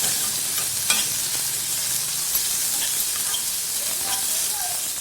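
Chopped onions sizzling in hot oil in a kadai as they are stirred: a steady frying hiss with a sharp click of the stirring utensil against the pan about a second in.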